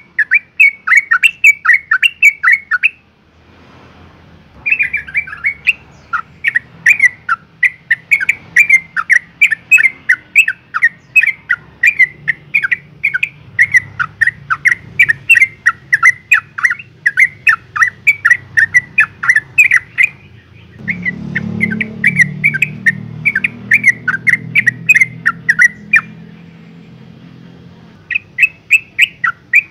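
Yellow-vented bulbul giving a fast string of short, sharp chattering notes, two or three a second, with brief pauses about three seconds in and near the end. The uploader presents it as a female in breeding condition calling for a male.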